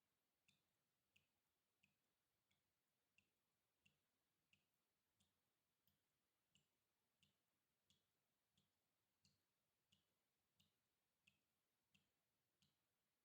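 Water dripping in a steady rhythm, about three drops every two seconds, each drop a short high-pitched plip with a soft low knock. Faint.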